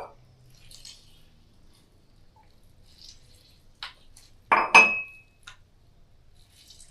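Kitchenware clinking: a few quiet clicks, then a loud cluster of knocks and a short ringing clink of a hard utensil against a dish or glass, a little past halfway.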